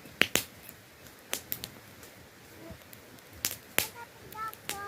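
Campfire crackling: sharp, irregular pops and cracks, some coming in quick pairs.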